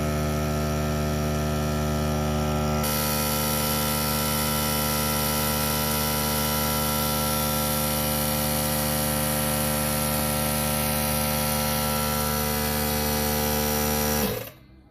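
A small motor runs steadily at one even pitch, then cuts off abruptly near the end.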